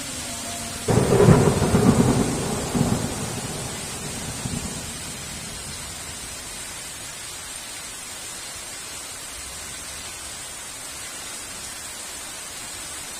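A thunderclap about a second in, a sudden loud crack that rumbles and fades over about four seconds, over steady heavy rain.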